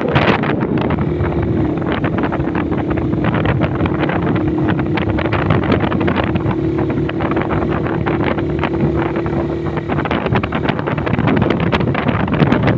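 Motorcycle engine running at a steady cruising speed under heavy wind noise on the microphone; the engine note holds steady for most of the stretch, then breaks up about ten seconds in.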